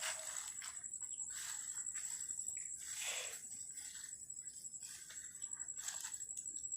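Crickets trilling: a steady high-pitched chirring, with several short soft swishes over it.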